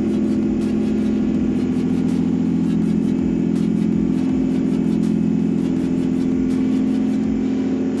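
Toyota 3GR V6 petrol engine running steadily at idle on an engine test stand.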